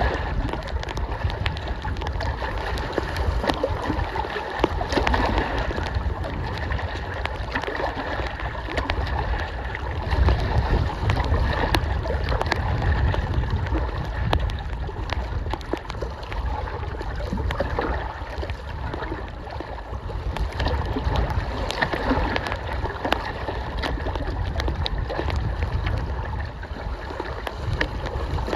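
Wind-driven lake water lapping and splashing at the shore, with gusts of strong wind rumbling on the microphone and scattered ticks of rain.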